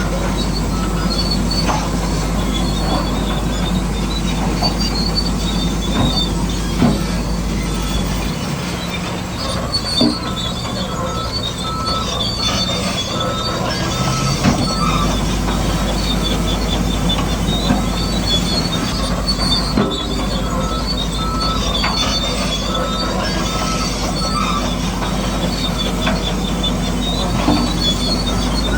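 Bulldozer running steadily while its steel crawler tracks squeal, with scattered clanks and knocks.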